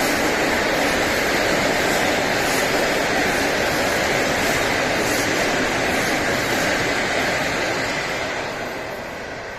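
Train passing close by, a steady loud rolling noise of wheels on rails that begins to fade about eight seconds in as the train moves away.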